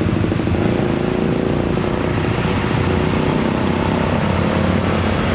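A heavy truck's diesel engine running steadily close by, a low even engine note with traffic noise over it.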